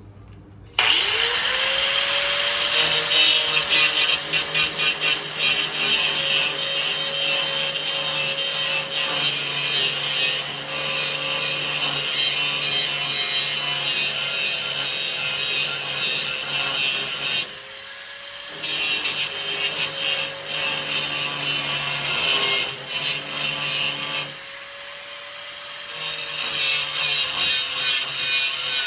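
Angle grinder spinning up and grinding on sheet metal, its motor holding a steady pitch under a harsh grinding hiss. Twice the disc comes off the metal briefly and only the spinning motor is left before it bites again.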